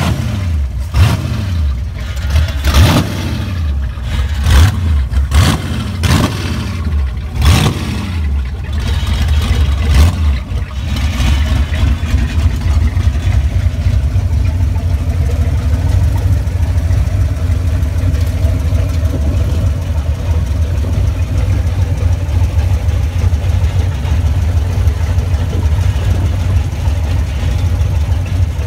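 The 1967 Ford Mustang's 347 stroker V8 is blipped through several quick revs, each rising and dropping back, over the first ten seconds or so. It then settles into a steady idle.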